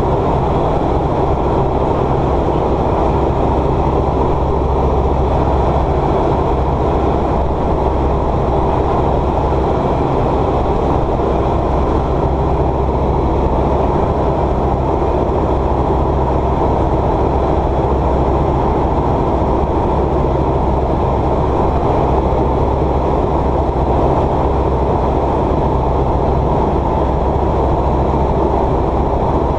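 Light aircraft's piston engine and propeller droning steadily, heard from inside the cabin in flight.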